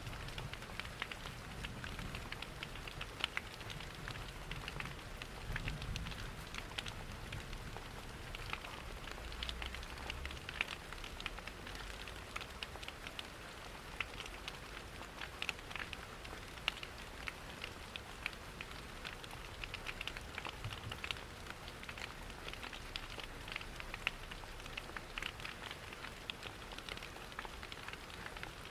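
Layered rain and wood-fire ambience: an even hiss of rain and rushing water with many small, sharp crackles and pops from the fire, and a low rumble during roughly the first ten seconds.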